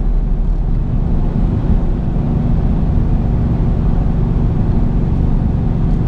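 Supercharged 5.7 Hemi V8 with long-tube headers, high-flow cats and a Corsa sport exhaust, heard from inside the cabin of a 2020 Jeep Grand Cherokee Trailhawk while driving: a steady, low engine and exhaust drone.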